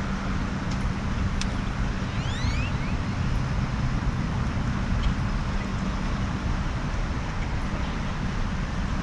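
Steady wind noise on the microphone and water noise on a boat, over a low motor hum, with a few faint high chirps about two and a half seconds in.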